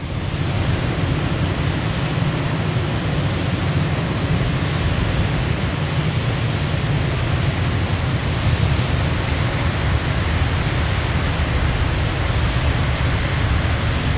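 Waterfall: a steady rush of falling water, heaviest in the low rumble, with no change through the stretch.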